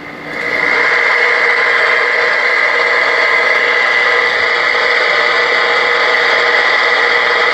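Ranger RCI-2970N4 radio's speaker putting out loud, steady static from the band, with a faint whistle near 2 kHz. The static swells up over the first second, then holds level.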